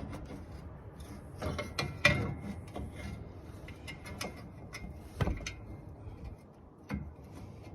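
Irregular metallic clicks and knocks of hand tools and parts being handled during work on a car's front end, with the sharpest knocks about 2 and 5 seconds in.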